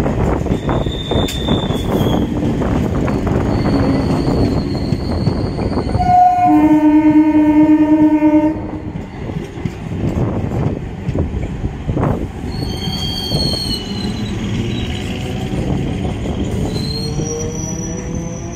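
Eastern Railway EMU local train running past at speed: continuous wheel-on-rail rumble and clatter with brief high wheel squeals. About six seconds in, an EMU horn sounds for a little over two seconds, the loudest sound. A rising whine follows near the end.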